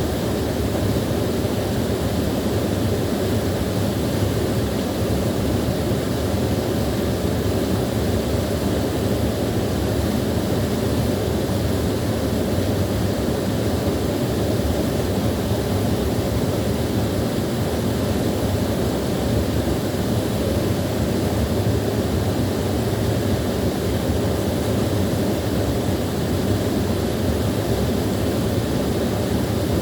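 Small waterfall pouring steadily, a full, low rushing of falling and splashing water with no change.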